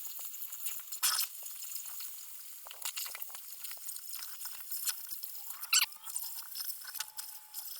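Oxy-acetylene cutting torch hissing as it cuts through the thick steel of a backhoe bucket, with crackling and popping from molten slag. A thin steady whistle comes in about two-thirds of the way through.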